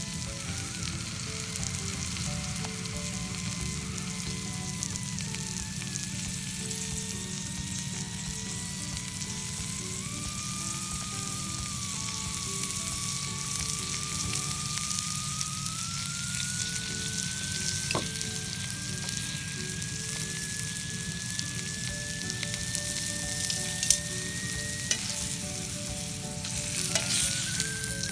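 Wild wood ear mushrooms sizzling steadily in a small frying pan, with a faint thin tone that slowly rises in pitch and a few sharp clicks near the end.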